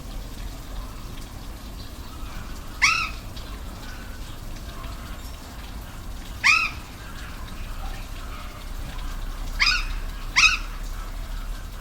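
Four short, arching animal calls over a steady rush of falling water. The first two come a few seconds apart, and the last two come close together near the end.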